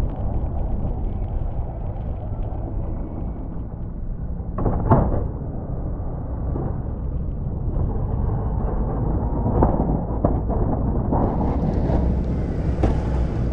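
A snow plow truck's engine running with a steady low rumble, with a sharp knock about five seconds in, a few more around ten seconds, and a hiss near the end.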